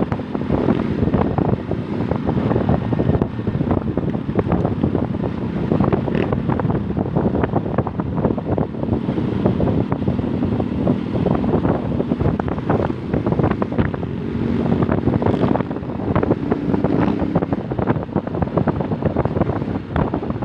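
Wind buffeting the microphone on a moving Rusi Nova SS 150 motorcycle, with the engine running underneath, its pitch wavering a little.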